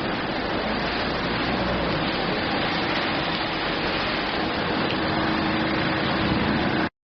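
Steady rainfall: a dense, even hiss of rain that cuts off suddenly near the end.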